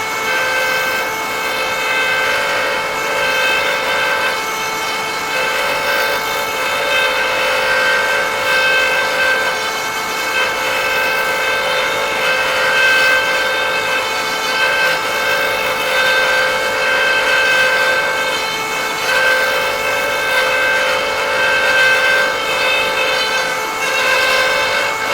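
High-speed motor of a threading jig's cutter whining at a steady pitch while the cutter chews threads into a wooden tenon, a rough wood-cutting rasp swelling and easing as the cut goes.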